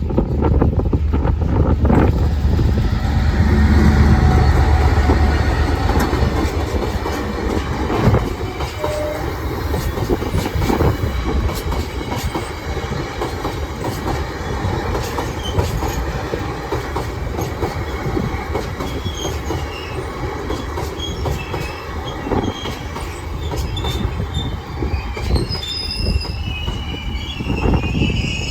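Long train passing over the level crossing: a heavy low rumble for the first several seconds, then a steady run of wagons with repeated wheel clicks over the rail joints. High-pitched wheel squeal comes in here and there over the last ten seconds or so.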